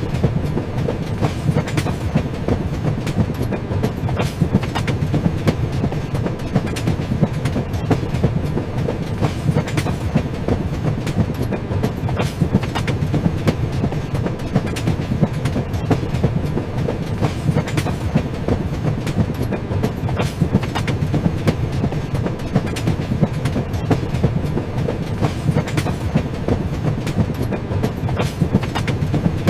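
Train wheels running over rail joints: a steady low rumble with a continuous clickety-clack of wheel clicks.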